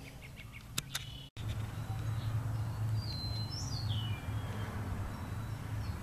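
A few bird chirps, short falling whistles, about three to four seconds in, over a steady low hum.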